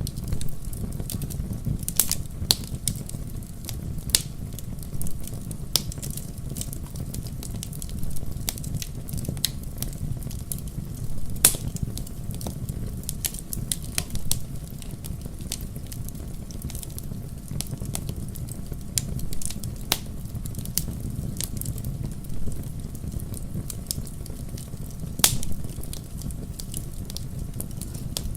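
Wood fire crackling in a fireplace: irregular sharp pops and snaps over a steady low rumble of the flames, with a few louder pops scattered through.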